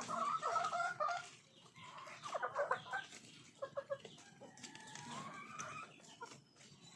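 Chickens clucking in short runs of calls, loudest in the first second, with one rising call later on.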